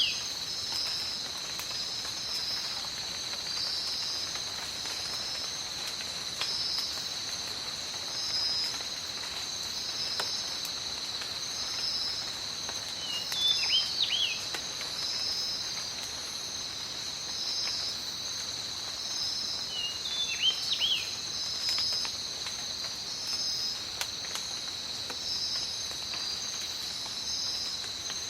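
Tropical rainforest ambience: a steady high insect chorus with another insect call pulsing every second or two. A bird gives short chirping calls three times, at the start, about halfway and about two-thirds through, over faint rain and drips.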